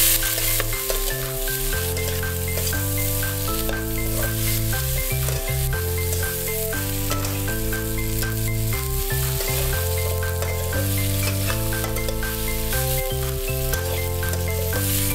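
Spiny gourd slices sizzling in hot mustard oil and masala in a metal kadhai, stirred and scraped with a metal spatula. Background music with a stepping bass line plays along.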